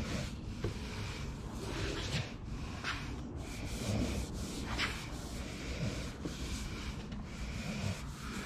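Repeated hand rubbing strokes over a primed plastic bumper cover, about two strokes a second.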